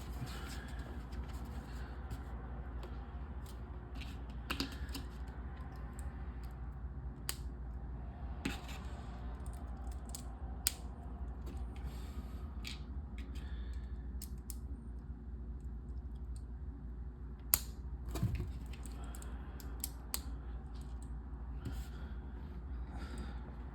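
Plastic LEGO bricks clicking and being snapped together during building, in scattered irregular clicks, with a few sharper ones about halfway and around eighteen seconds in. A steady low hum runs underneath.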